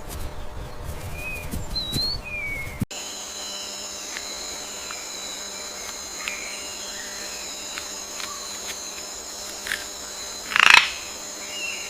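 Birds chirping over outdoor background noise. A cut about three seconds in brings a steady high-pitched whine, and a short, louder sound comes near the end.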